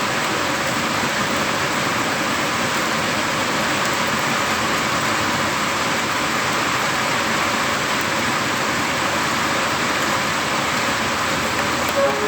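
Steady downpour of heavy rain during a thunderstorm, an even hiss that holds at the same level, with a brief short tone near the end.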